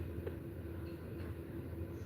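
Steady low background hum, with a faint tick about a quarter second in; no parrot call in the gap.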